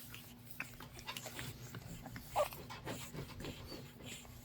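Six-week-old pug puppies playing: faint scuffling and small clicks with brief squeaks, the loudest squeak about two and a half seconds in.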